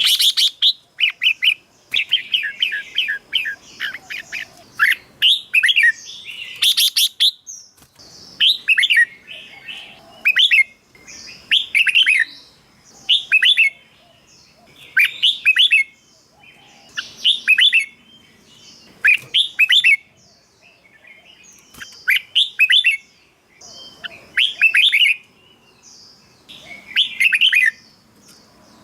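Red-whiskered bulbul singing: a quick, dense run of chirps for the first several seconds, then short, bright phrases of a few fast notes, repeated about every one and a half to two seconds.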